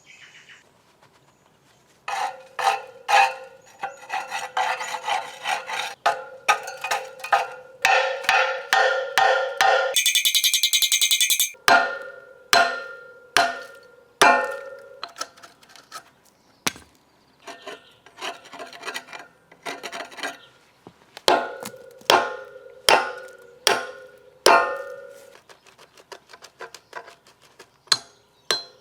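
A hammer or steel tool repeatedly striking rusted steel cart wheels, each blow ringing with a metallic tone. The blows come rapidly for several seconds, then more spaced out, about one or two a second. A brief harsh scraping burst comes about ten seconds in.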